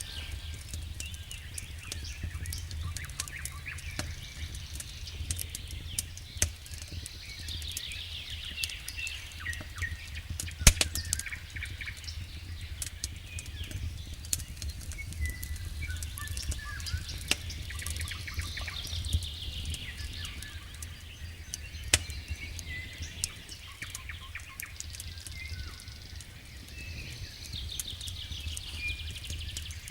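Wood fire burning in a fireplace: irregular crackling with a few sharp pops over a steady low rumble, with high chirping trills coming and going above it.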